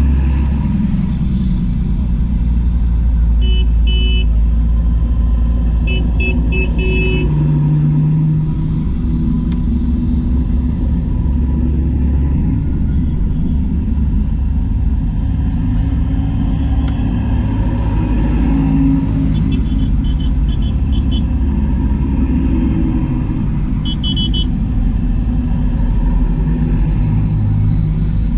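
A convoy of farm tractors driving past, their diesel engines making a loud, steady low rumble. Short bursts of horn toots sound several times over it.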